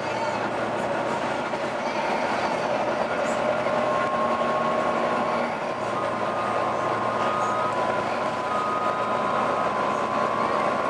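Volvo B9TL double-decker bus running, with a strange howling whine over its running noise: several steady high tones that come and go and step slightly in pitch.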